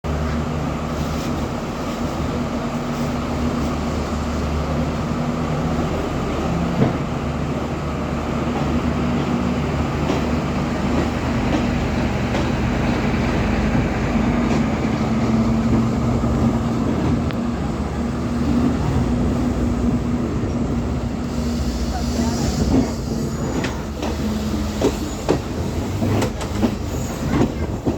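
Diesel engine of a Class S12 diesel multiple unit running steadily, with a low, even hum under the rumble of the train. About three quarters of the way through, a hiss and a run of short clicks come in.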